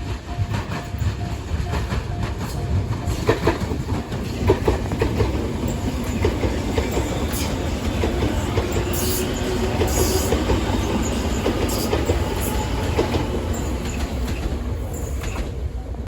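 Train passing over a level crossing, with a steady roar and wheels clattering rhythmically over the rails. The crossing's warning bell is ringing in pulses at the start and is drowned out within the first few seconds.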